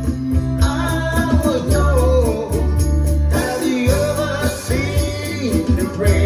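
Pop-rock song playing: a sung vocal line over a band backing of bass, sustained keyboard chords and drums with a steady cymbal beat.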